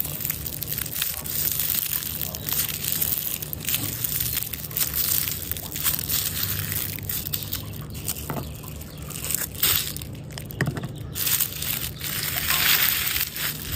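Slime being squeezed and worked by hand, with a continuous run of small crackles, clicks and squelches.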